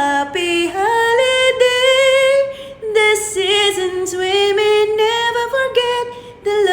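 A woman's voice singing long, held notes of a Christmas song, the pitch slowly bending from note to note, with little accompaniment heard under it.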